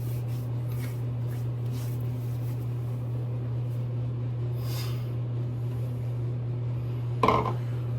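Steady low hum with faint splashes of water as the face is wetted by hand for shaving, and one short, louder knock near the end.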